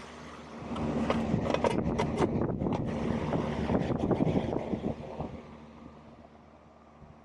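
Residential air conditioning condensing unit running, a steady low hum, with wind buffeting the microphone for the first five seconds or so before it dies down.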